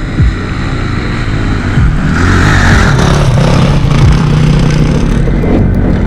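Honda CRF250X dirt bike's single-cylinder four-stroke engine revving hard under load up a steep hill climb, its note rising and getting louder about two seconds in.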